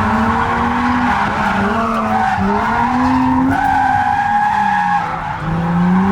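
Nissan G35's VQ35 V6 revving up and down repeatedly as the car is drifted, with tyres screeching continuously over the engine, heard from inside the car.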